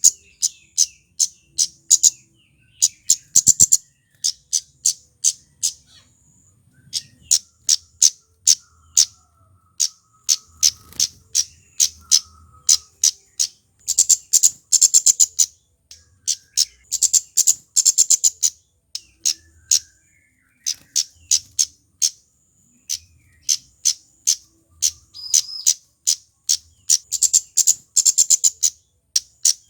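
Male kemade flowerpecker calling in quick runs of sharp, high-pitched tsit notes. Several runs speed up into rapid trills, with short pauses between runs.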